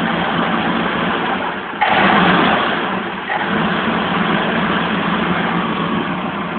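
Inline-four engine of a 1971 BMW 1800/2000ti, freshly brought back to running, running steadily with one sudden rev about two seconds in that falls back after about a second and a half.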